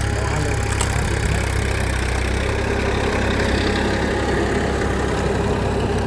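A small engine, likely the mini dumper's, running steadily with an even low hum.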